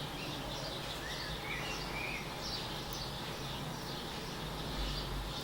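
Small birds chirping repeatedly in short, quick calls, over a steady hiss and low hum.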